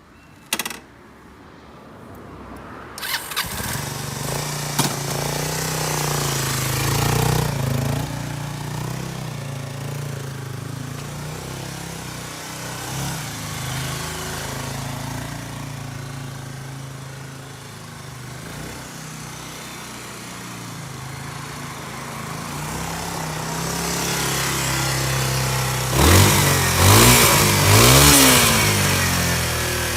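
Kawasaki 250TR's air-cooled single-cylinder four-stroke engine being started, catching about three seconds in and idling steadily. It is blipped, revving up and down several times near the end.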